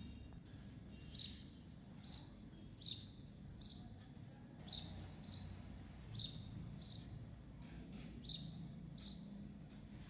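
A small bird chirping repeatedly: about ten short, high, falling chirps, roughly one a second, over a low background hum.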